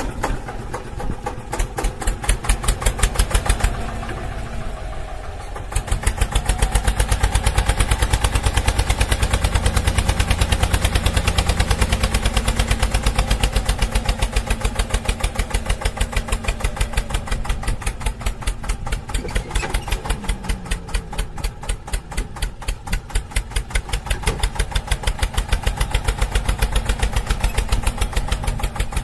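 Tractor engine idling with a fast, even chugging beat, louder from about six seconds in.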